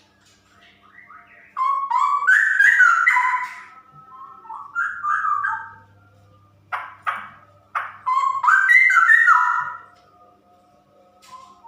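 Female straw-headed bulbul singing: three bursts of loud, melodic whistled phrases that glide up and down, with a few short sharp notes in the middle.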